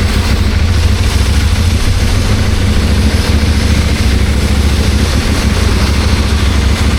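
CFMOTO 800MT motorcycle's parallel-twin engine running steadily, a low hum under an even hiss of noise, with no revving up or down.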